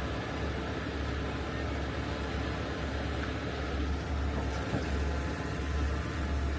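Heavy rotator tow truck's diesel engine running steadily, powering the boom hydraulics during a heavy lift.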